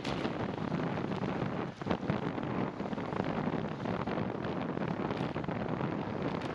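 Wind buffeting the microphone during a ride in the rain: a steady, rough rushing noise with fine crackling.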